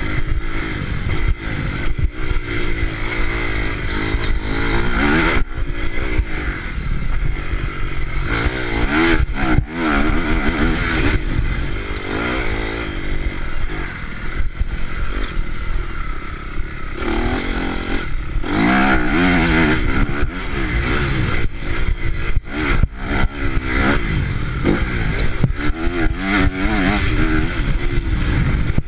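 Honda CRF motocross bike's four-stroke single-cylinder engine revving up and down again and again as it is ridden, the pitch climbing and dropping every few seconds, with frequent knocks and clatter.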